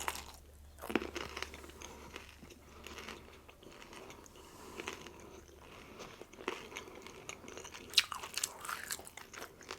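A person biting and chewing crispy fried rolled tacos close to the microphone, with scattered crunches between quieter chewing.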